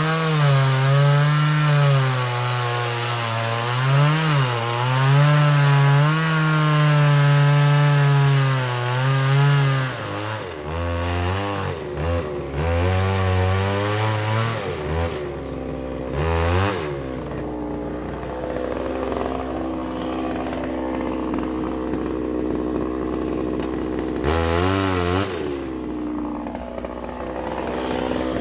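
Power tool cutting into pine wood, its motor pitch wavering under load for about ten seconds. It then revs up and down in uneven bursts and eases to a quieter steady hum, with one more brief rev near the end.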